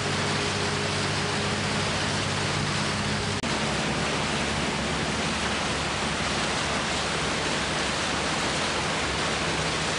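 Steady, loud rushing noise of heavy rain and wind, under a low hum. The hum changes abruptly at a cut about three and a half seconds in.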